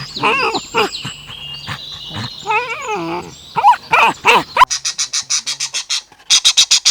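Mixed wild animal calls: wavering pitched cries overlaid with high, falling bird chirps, then a fast run of harsh, high chirps, about seven a second, over the last two seconds.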